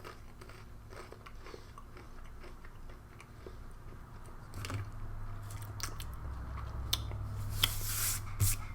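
Biting into and chewing a dry, decades-old MRE cracker: scattered crunches and crumbly clicks that grow louder and denser from about halfway through.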